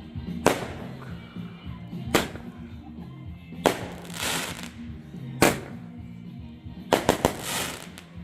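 Fireworks going off: single sharp bangs every second and a half or so, then a quick run of three bangs about seven seconds in. A couple of the bangs are followed by a short crackling hiss. Music plays steadily underneath.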